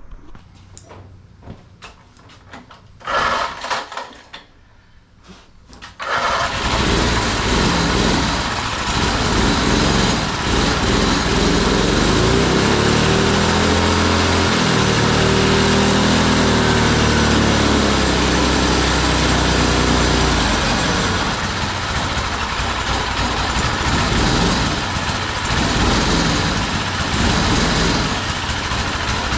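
Small go-kart engine started: a short burst about three seconds in, then it catches about six seconds in and runs loud, revving up and back down in the middle before settling to a steady run. The owner says it still needs a slight bit of timing adjustment.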